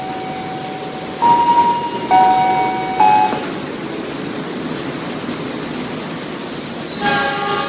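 Passenger train carriages rolling past along a platform, a steady rumble of wheels on rail. Over it in the first few seconds, a short run of held musical notes steps between three pitches, and another note starts near the end.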